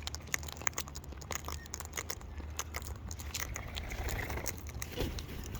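Birds pecking and cracking food at a feeding table: irregular sharp clicks and crunches, several a second.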